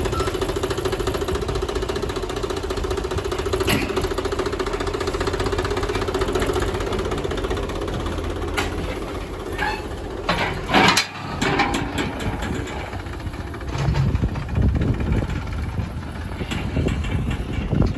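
Tractor engine running steadily. About eleven seconds in there is a loud knock, followed by scattered clicks, and near the end the engine sound rises and falls unevenly.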